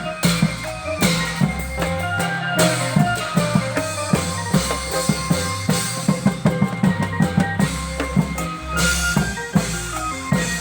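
Klong yao long-drum band playing festive music: drums beat a busy rhythm, with a quick run of strokes in the middle, over a stepping bass line and a held-note melody.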